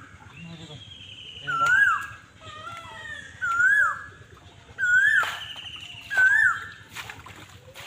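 Birds calling: one bird repeats a short loud note that rises and then drops sharply, about once every second or so, while another gives higher, falling trilled calls. A few brief sharp sounds come in between.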